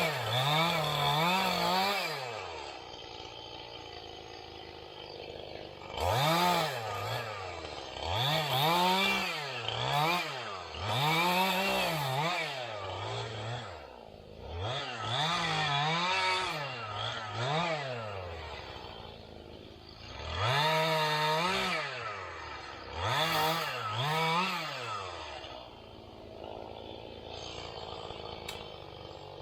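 Small engine revving up and down over and over, about ten swells of a second or two each, dropping back to a lower idle in between.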